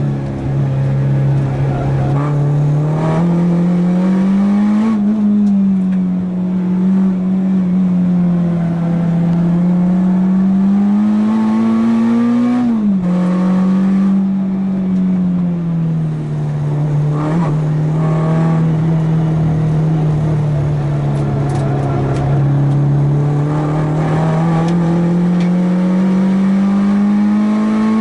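A racing hatchback's engine under load on a circuit, its pitch climbing under acceleration and easing off through corners. It drops sharply at a gear change about 13 seconds in, then climbs steadily again toward the end.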